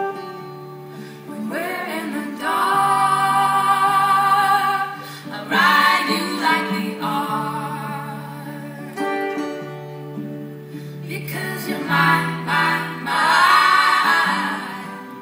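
Women's voices singing a slow folk song in harmony over steady, held low notes, performed live. The phrases swell and fall, loudest about three, six and fourteen seconds in.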